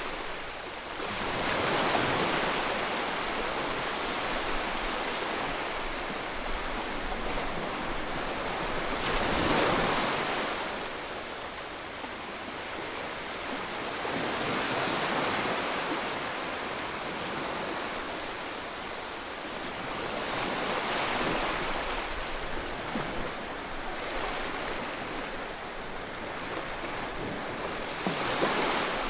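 Ocean waves breaking on the shore, with surges of surf every several seconds, about five times.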